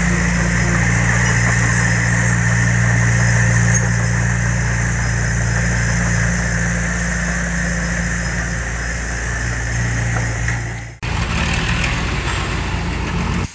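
A heavy construction machine's diesel engine runs steadily at an even pitch. Nearly eleven seconds in, the sound breaks off for an instant and carries on with a changed tone.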